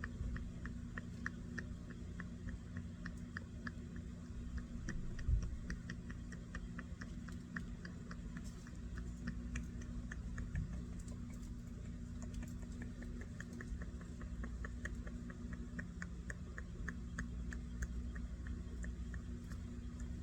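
A pet animal chewing, a steady run of small crisp crunches about three a second, over a steady low hum.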